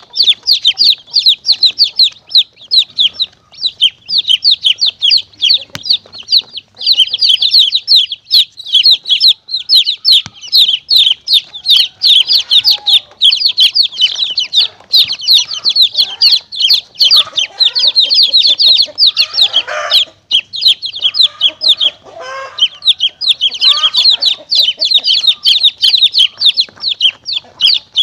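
A crowd of chicks peeping rapidly and without pause, high-pitched calls overlapping many times a second, with some lower calls mixed in through the middle. It is a chick-call lure recording of the kind played to draw monitor lizards and mongooses.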